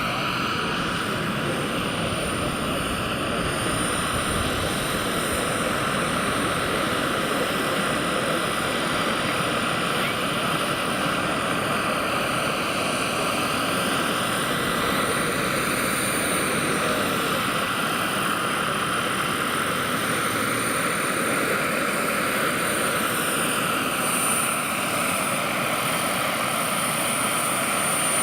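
Turbine-powered scale model SA 315B Lama helicopter in flight: a steady high turbine whine over the rush of the rotor and engine, the tone shifting gently as the model moves about.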